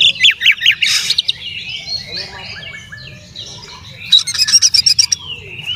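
Oriental magpie-robin (kacer) singing: loud fast runs of sharp notes at the start and again about four seconds in, with softer, varied warbling phrases between.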